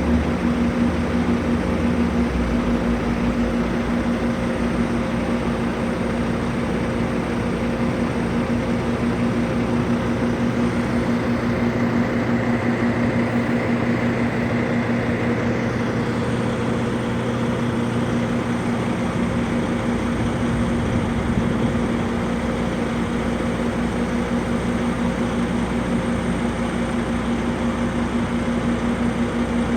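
Steady vehicle engine and road noise, a constant drone with a hum that holds the same pitch.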